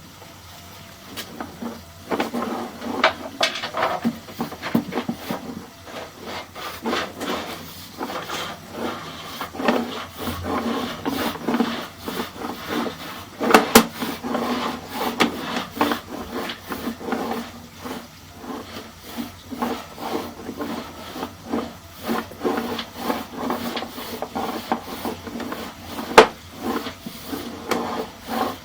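Sewer inspection camera's push cable and camera head being fed through a drain pipe: irregular scraping and rubbing with frequent sharp knocks and clicks, starting about two seconds in.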